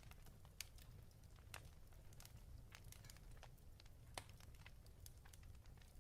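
Faint fireplace crackling: irregular small snaps and pops, a few of them sharper, over a low steady rumble.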